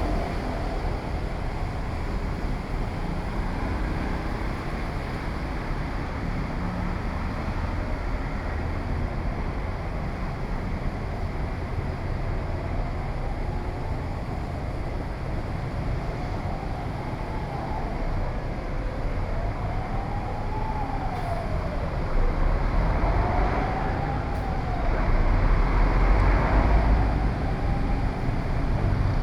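Steady street traffic noise with a low rumble, and through the second half a siren wailing slowly up and down in pitch, several rise-and-fall cycles.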